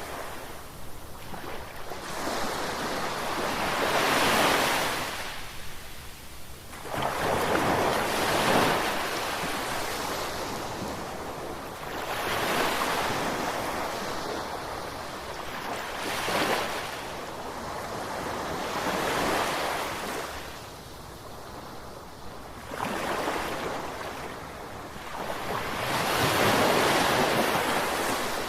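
Ocean waves breaking on the shore, the surf swelling and ebbing in repeated surges every few seconds.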